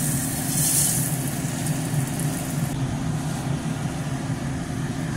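Tortilla-wrapped banana roll shallow-frying in oil in a nonstick pan: a light, hissing sizzle over a steady low mechanical hum. The high hiss thins out abruptly a little past halfway.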